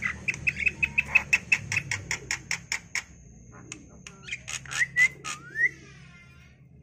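Pet bird calling: a rapid run of sharp chirps, about eight a second, for about three seconds, then a few more chirps with short rising glides.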